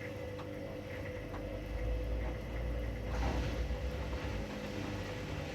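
Front-loading washing machines running late in their cycles: a steady motor hum with a low drum rumble that swells about a second in and eases off near four seconds.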